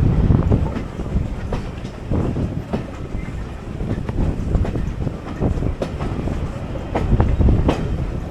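Vintage railway carriage running along the track: a continuous low rumble with irregular knocks and clicks from the wheels over the rails.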